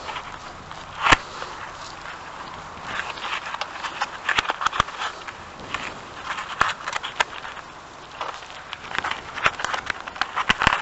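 Hands bending and handling the air conditioner indoor unit's insulated copper refrigerant pipes: uneven rustling and scraping with many sharp clicks, the sharpest about a second in and near the end.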